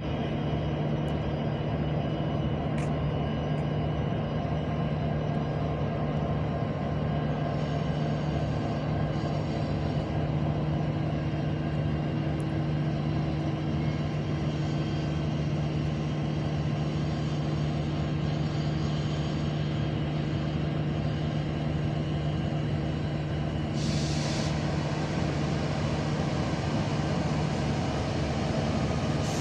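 Talgo 250 train's power car standing at the platform, running with a steady low hum and a constant drone of equipment noise. A short hiss of air breaks in near the end.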